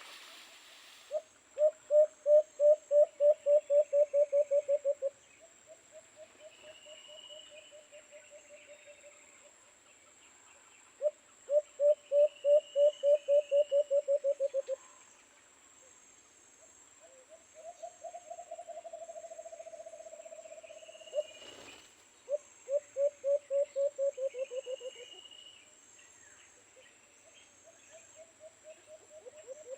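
Dove calling in repeated runs of low, rapid hooting notes, about four a second, each run lasting three to four seconds, and one longer, steadier run a little before the middle. A smaller bird chirps between the runs over a steady high insect buzz, and there is a single sharp click about two-thirds of the way in.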